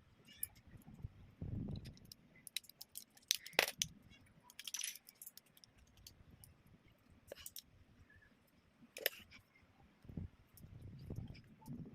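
Small plastic building bricks clicking and clattering as they are handled and pressed together, with a brief rustle about halfway through and a few soft thumps.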